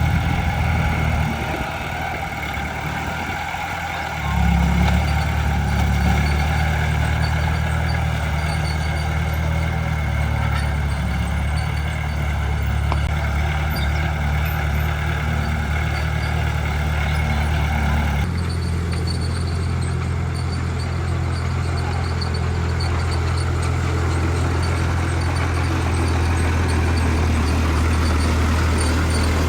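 Heavy diesel engine of earthmoving machinery running steadily under load. It drops back briefly, then picks up again about four seconds in. The sound shifts abruptly about eighteen seconds in.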